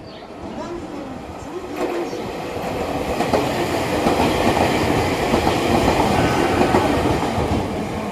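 Tobu Railway limited express train passing through a station without stopping: rumble and wheel clatter building from about two seconds in, loudest in the second half and starting to ease off near the end.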